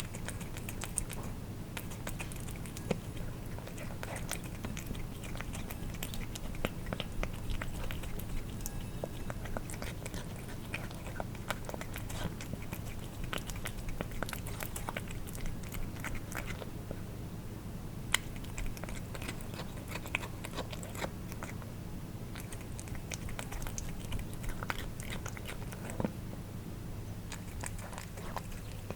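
Cats eating wet food: quick, irregular wet clicks and smacks of licking and chewing, over a steady low hum.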